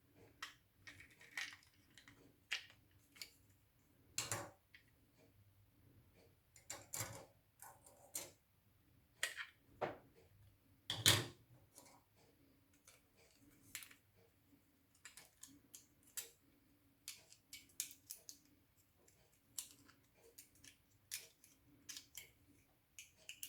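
Irregular small clicks and taps of a scooter key fob and keys being handled while its battery is changed, one sharper knock about halfway through.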